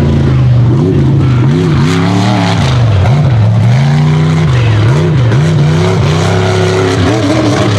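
Unlimited-class mega truck engine revving up and down repeatedly, its pitch rising and falling about once a second as the throttle is worked on and off.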